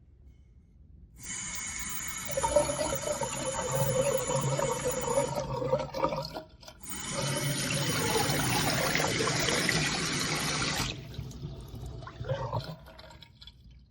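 Water from a waterfall-spout single-lever bathroom faucet running into the sink. It is turned on about a second in, shut off briefly near the middle, run again, and shut off a few seconds before the end.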